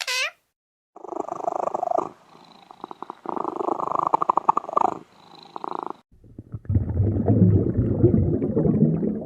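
Domestic cat purring in rapid pulsed bursts with short pauses, then about six seconds in a louder, lower, rougher animal sound takes over.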